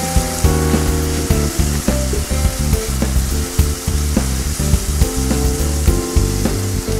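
Butter foaming and sizzling in a hot pan with browned onion strips, as a spatula stirs and scrapes through them. Background music with low notes plays underneath.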